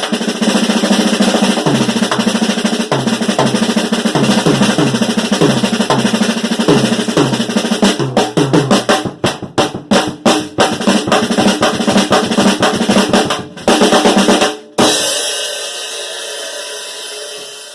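Drum kit played fast: a long, dense snare roll, then separate hits around the kit from about halfway through. Near the end a final crash is left ringing and fading away.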